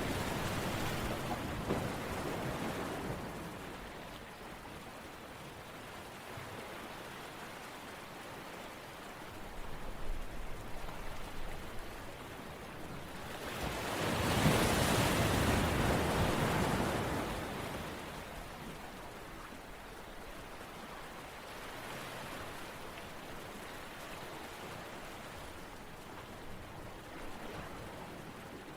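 A steady wash of rushing water noise with no tone in it. It swells up and fades away twice, at the start and again about halfway through, with a smaller rise a little before the second swell.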